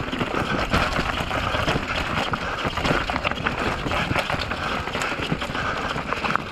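A mountain bike descending a rocky downhill trail at speed: dense, irregular rattling and knocking from the bike over rocks, over a steady rushing noise.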